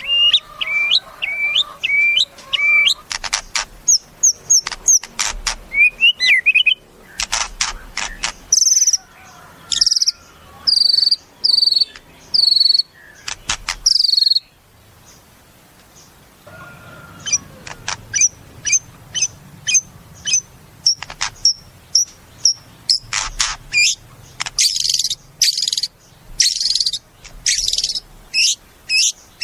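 White-rumped shama (murai batu) singing a varied song: clear whistled notes, fast repeated phrases and sharp clicking strokes, with a pause of a couple of seconds about halfway through.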